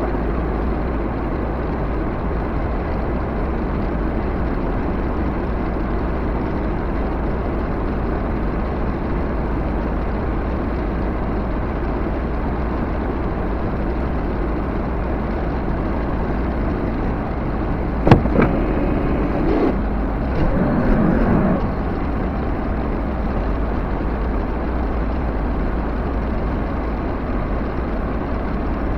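Backhoe engine running steadily, with one sharp bang about 18 seconds in and a little brief clatter just after.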